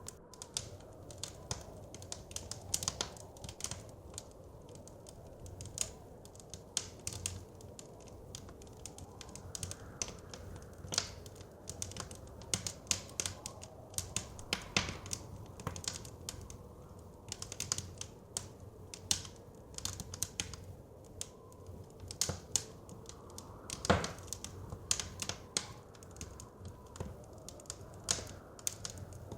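Wood fire crackling, with many irregular sharp pops and snaps over a low steady rush. One pop, about four-fifths of the way through, is louder than the rest.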